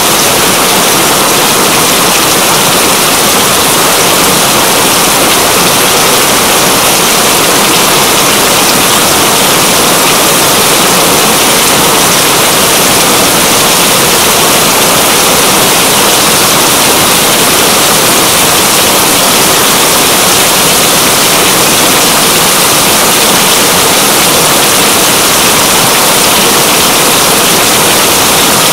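Heavy rain falling in a loud, steady, unbroken hiss.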